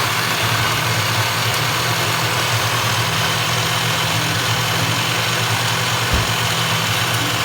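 Electric countertop blender running steadily at full speed, blending citron pulp with rose water and sugar.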